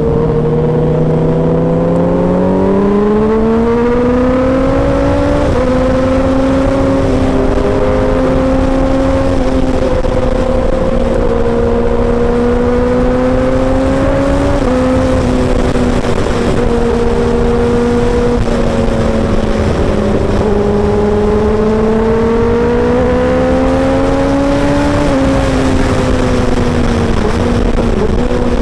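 Kawasaki Ninja inline-four sport bike with an aftermarket exhaust, under way. The engine note climbs over the first few seconds, then holds and wanders with the throttle. Its pitch drops suddenly about 5, 15 and 25 seconds in.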